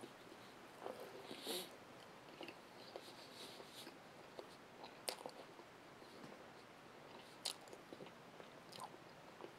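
Faint close-up chewing of a soft pita-wrapped roast beef gyro after a bite: quiet, wet mouth clicks and smacks, with a few sharper clicks scattered through.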